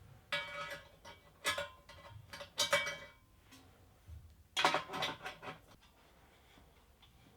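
Steel exhaust pipe sections clinking and ringing against each other as a tacked-together end can and link pipe are fitted into a V-band clamp. There are four short bursts of clanks, the last and longest about four and a half seconds in.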